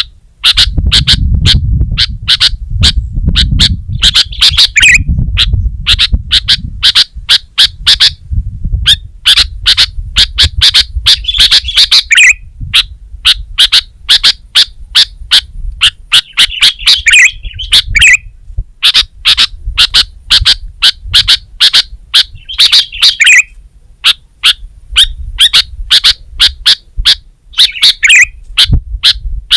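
Sooty-headed bulbul (kutilang) singing continuously: sharp, quick notes repeated several times a second, broken every five or six seconds by a short warbling phrase that drops in pitch.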